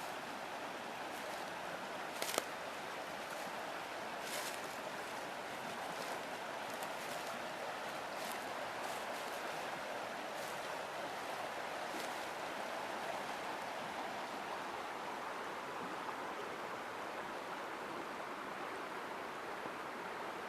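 River water running steadily, with a few faint clicks or snaps scattered over the first half.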